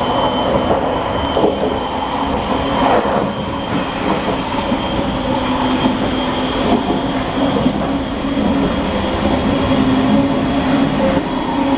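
JR Shikoku 8600 series electric train running at speed, heard from the gangway between two cars: a steady, loud rumble and rattle of wheels on track with a few faint clicks.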